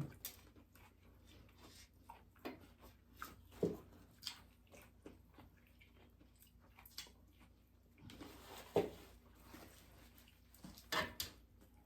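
Close-miked eating sounds: scattered chewing and biting into crispy chicken and bacon lettuce wraps, with short crunches and mouth clicks.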